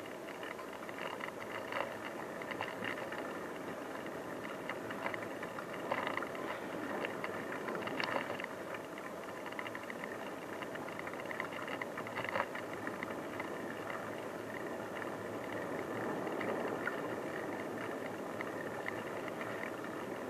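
Bicycle rolling along a rough unpaved track: steady tyre and ride noise with frequent light rattles and a few louder knocks from bumps.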